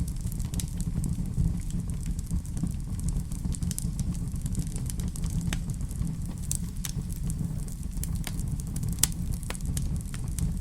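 Fire burning in a fireplace, crackling with irregular sharp pops over a steady low rumble. One louder pop comes about nine seconds in.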